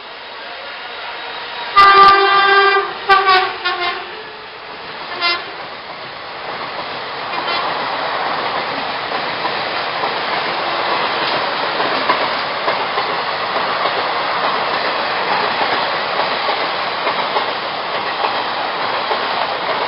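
WCAM-1 electric locomotive's horn: one long blast about two seconds in, then several short toots. After that the train runs through at speed, a steady rush and rumble of wheels and coaches that builds and holds.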